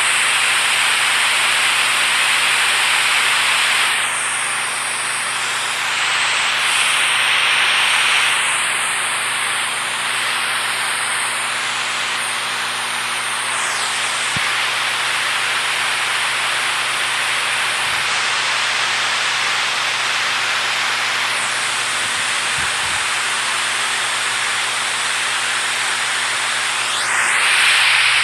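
Steady rushing water, a continuous hiss that swells a little every few seconds.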